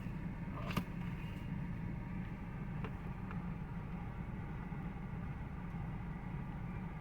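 Car engine idling, a steady low hum heard from inside the cabin, with a single click about a second in.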